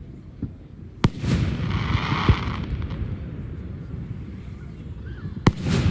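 Aerial fireworks bursting: a sharp bang about a second in, followed by about a second of hissing crackle and a smaller pop, then two more bangs close together near the end.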